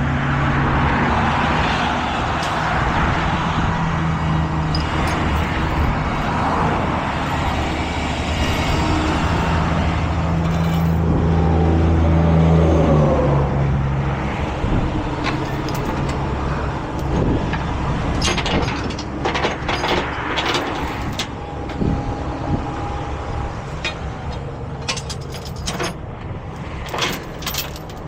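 Heavy truck's diesel engine running steadily, growing louder for a few seconds in the middle, with a hissing noise over the first half. Sharp knocks and clicks come through repeatedly in the second half.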